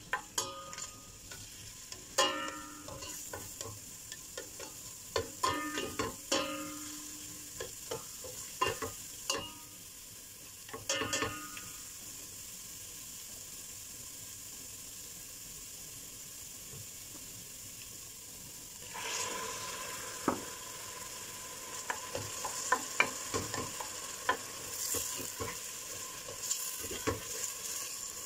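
Minced garlic sizzling in olive oil in a stainless steel stockpot, with a black spoon knocking and scraping against the pot in bursts during the first part. About two-thirds of the way through, the sizzle grows louder and crackles with frequent pops as pieces of squid go into the hot oil.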